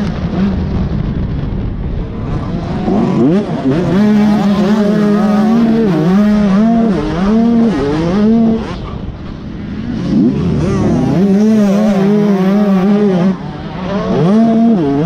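Dirt bike engine revving hard, its pitch climbing and dropping again and again as the throttle opens and closes and it shifts through the gears.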